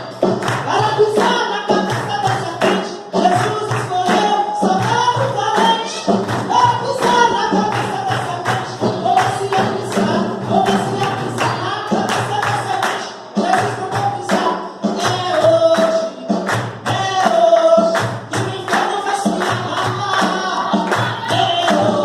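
Brazilian Pentecostal worship chorus ('corinho de fogo'): a voice singing a lively melody over fast, steady tambourine beats.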